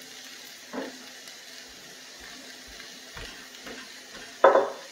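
Steady sizzling hiss of potatoes frying in bacon grease in a cast-iron skillet, with a few light knocks and a short, louder sound near the end.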